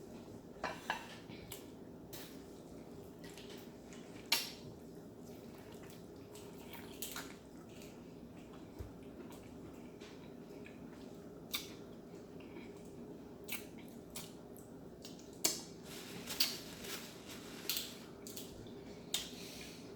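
Close-miked eating of seafood: scattered sharp clicks and wet crackles of chewing and handling the food and utensils, more frequent in the second half, over a faint steady hum.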